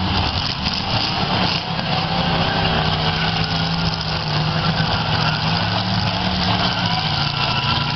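Eight-cylinder demolition derby car engines running, a steady loud drone.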